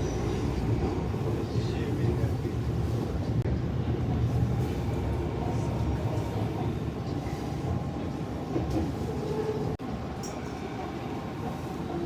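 Canada Line metro train running, heard from inside the car: a steady rumble of wheels on the track with a faint steady whine.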